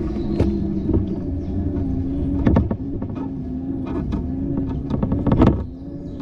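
Riding noise from a bicycle on a city street: a low road rumble with a steady hum, broken by sharp knocks about two and a half seconds in and again near the end as the bike jolts over bumps.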